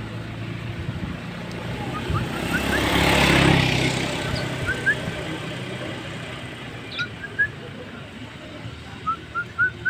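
A road vehicle passes, swelling to its loudest a few seconds in and fading. Over it, a bird gives short rising whistled notes in quick runs of two to four, the last run near the end.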